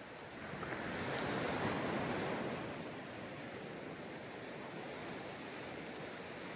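Ocean waves breaking on a sandy beach: one wave swells up and crashes about a second in, then washes back into a steady hiss of surf.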